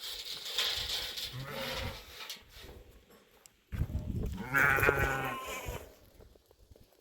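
Livestock bleating: one call in the first two seconds, then a louder, quavering bleat lasting about two seconds just past the middle.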